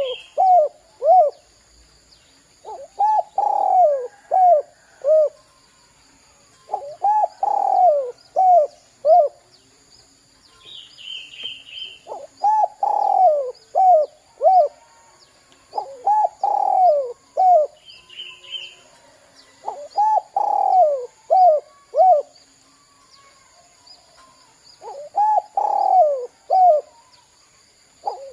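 Spotted dove (derkuku) cooing in repeated phrases about every four seconds, each a longer falling coo followed by three or four short coos. A higher, thinner chirp from another bird cuts in twice.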